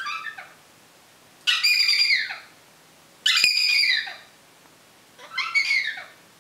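African grey parrot giving loud calls: a short one at the start, then three drawn-out calls about a second each, each falling in pitch at its end.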